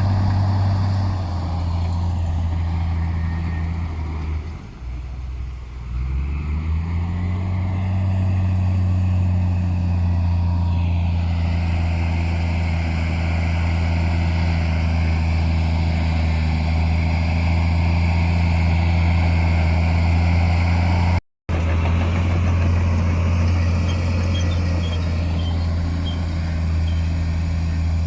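Heavy diesel engine of earthmoving machinery running steadily; about five seconds in its pitch sags and the sound drops away briefly before climbing back. A short break to silence comes about three-quarters through.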